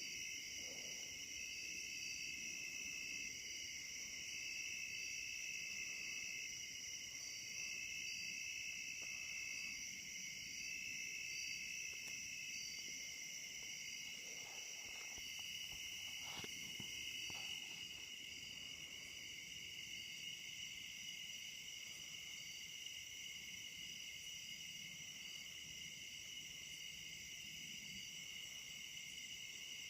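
Night-time chorus of insects: a steady high-pitched drone at several pitches at once, with one caller going on and off in phrases of a second or two through the first twelve seconds or so. It grows slightly quieter about two-thirds of the way through.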